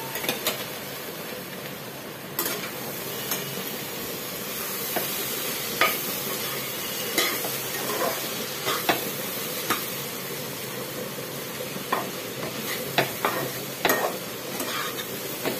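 Shredded cabbage with potato and peas sizzling steadily in a kadai as it fries, nearly done, while a spatula stirs and scrapes through it, with scattered sharp knocks of the spatula against the pan.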